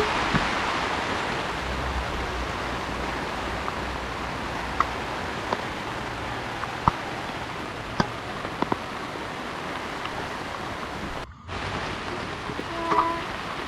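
Heavy rain falling steadily, with scattered sharp drip taps. The rain cuts out for a moment about eleven seconds in, and a short ringing tone sounds near the end.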